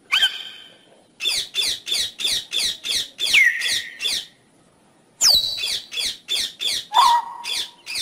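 A bird calling in two rapid runs of sharp, downward-sliding whistled notes, about three or four a second, with a pause of about a second between the runs. A single call comes just before the first run.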